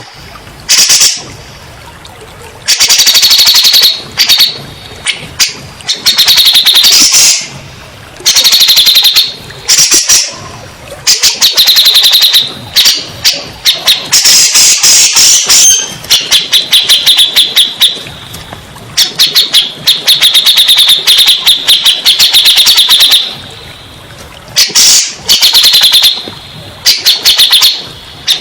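Cucak jenggot, a bulbul, singing loud bursts of rapid, chattering high notes. The phrases last one to three seconds each, with short pauses between them, and keep coming throughout.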